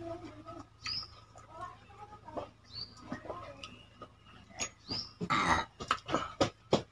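A bird giving a short rising chirp about every two seconds, over the small sounds of people eating rice and water by hand from steel bowls, with a louder slurp from a bowl about five seconds in.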